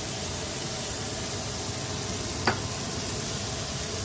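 Shrimp and oiled bread slices sizzling steadily on a hot stovetop grill pan, with a single short click about two and a half seconds in.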